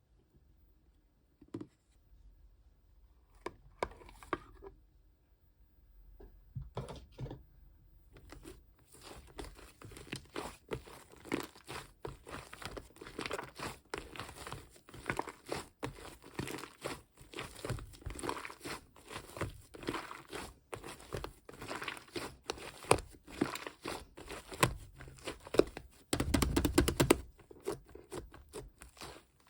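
Foamy slime made with shaving foam being pressed and squished by hand, giving dense crackling and popping. It starts as a few separate touches, turns into continuous crackling about a third of the way in, and has a louder squelch near the end.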